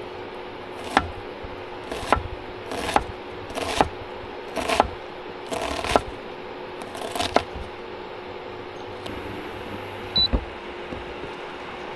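Utensil strokes in a bowl or pan during food preparation: about eight short scraping knocks, roughly one a second, over a steady hiss and low hum. One sharper knock comes near the end.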